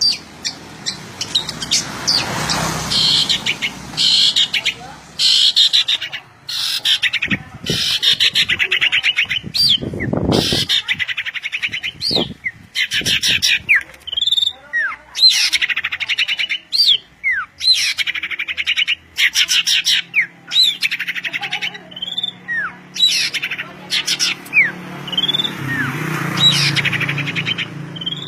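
A songbird singing continuously in long, rapid chattering trills, broken by short whistled notes that slide down in pitch: vigorous, non-stop song of the kind kept as tutor audio for training cage birds.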